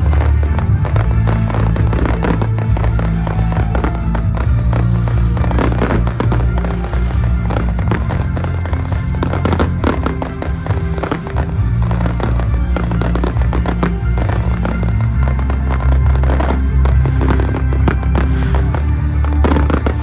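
Fireworks exploding and crackling in rapid, overlapping succession, over music with a heavy, steady bass.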